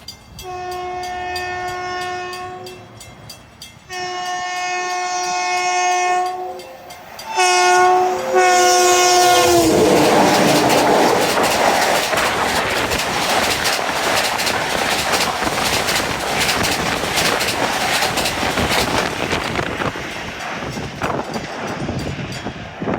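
Long Island Rail Road train sounding its horn in the grade-crossing pattern of long, long, short, long, the last blast dropping in pitch as the train reaches the microphone. The train then rushes past at speed, its wheels clattering over the rail joints.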